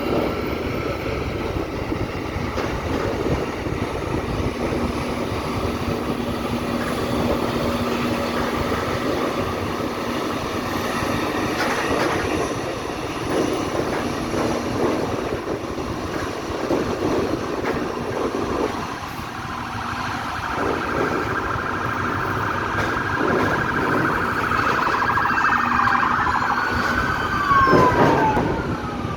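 Jet airliner passing low overhead: its engine whine builds over several seconds, then drops sharply in pitch as it goes by near the end, over steady road traffic noise.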